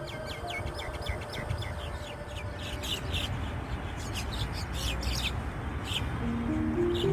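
Small birds chirping: many short, quick chirps, each falling in pitch, repeated in runs over a steady low background rumble.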